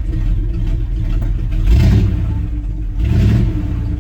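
Old Dodge Power Wagon pickup engine warming up after a cold start, idling with two short revs of the throttle, about two seconds in and again a second later. The gas is given to smooth out a rough cold idle.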